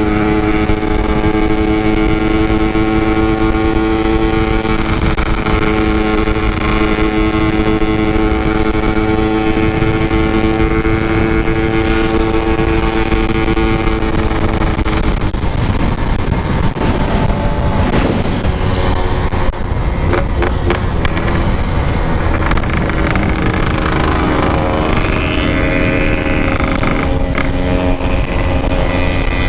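Yamaha RX-King 135 cc two-stroke single-cylinder motorcycle engine running under way at a steady pitch, with wind and road rush on the microphone. About halfway through, the engine note drops and then wavers up and down as the throttle and speed change.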